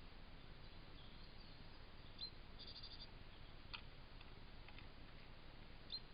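A small bird calling faintly, a short high trill of quick pips about three seconds in, with single brief high chirps about two seconds in and near the end, over a quiet woodland hiss.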